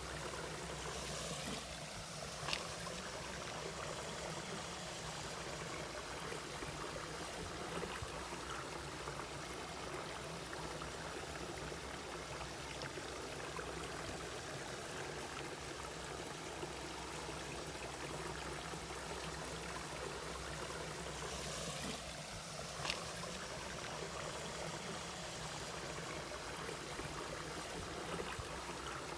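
Mountain valley stream flowing steadily over rocks. Two short sharp ticks stand out, a few seconds in and again past the three-quarter mark.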